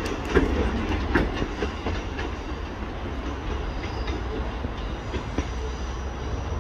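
Class 150 Sprinter diesel multiple unit's wheels clicking over points and rail joints as it moves away, with a steady low rumble beneath. The clicks are sharp and come about twice a second at first, then thin out and fade after about two seconds.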